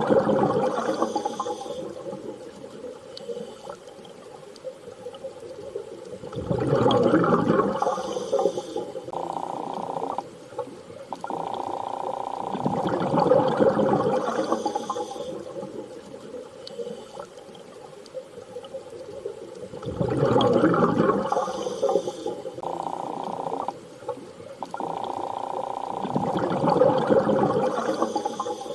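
Underwater-style ambience of water surging and swelling about every six or seven seconds, with steady hums and short tones in between, repeating in the same pattern about every thirteen seconds.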